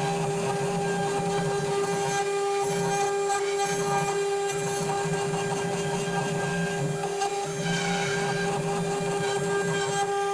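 Spindle of a homemade woodworking CNC router running with a steady whine while a small ball-end cutter mills brass. A lower hum switches on and off every second or so as the machine's axes move.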